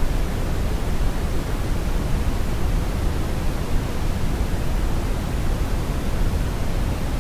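Steady brown noise: an even, deep rumbling hiss, strongest in the bass and falling away toward the treble, with no tones or events.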